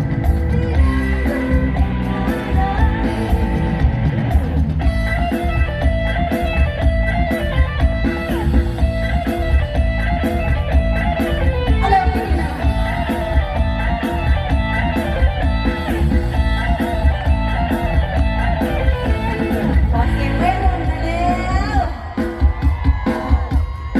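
Live luk thung band music with a steady beat, a guitar carrying the melody over bass and drums; it thins out briefly near the end.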